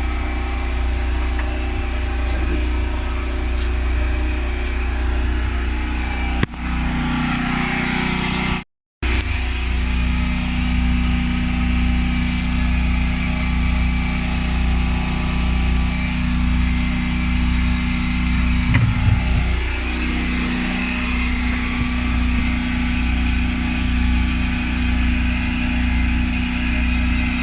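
A steady, loud mechanical hum like an engine running, with a low pulsing drone; it cuts out for an instant about nine seconds in, and one of its tones drops in pitch about two-thirds of the way through.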